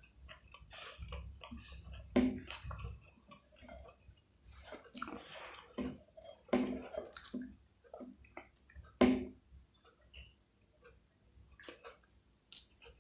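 Close-up eating sounds: irregular wet chewing and mouth smacks as chicken and fried rice are eaten, with sharper, louder smacks about two, six and a half, and nine seconds in.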